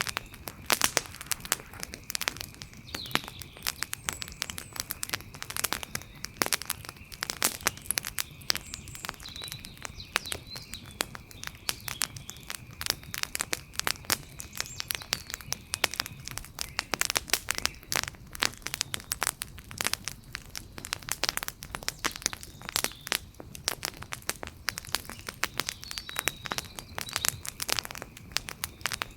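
Wood fire crackling, with dense irregular pops and snaps throughout.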